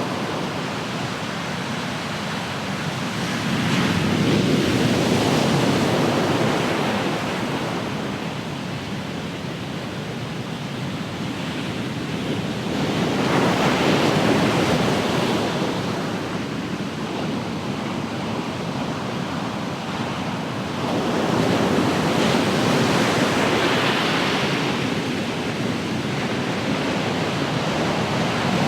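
Ocean surf: waves breaking and washing up the shore, swelling louder three times, about eight to nine seconds apart, over a continuous wash.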